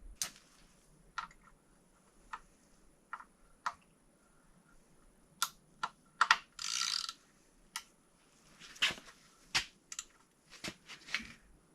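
Scattered clicks and light metal taps from hand tools and engine parts being handled, with a short rasping burst about seven seconds in.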